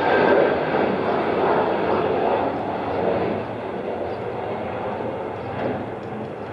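Jet airliner's engines at takeoff power, a loud, steady rushing noise that eases somewhat after about three seconds as the aircraft moves away.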